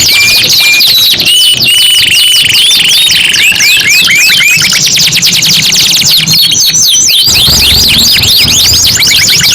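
Domestic canaries singing: fast rolling trills and rapid runs of repeated whistled notes, several series overlapping at different pitches, changing pattern every second or two.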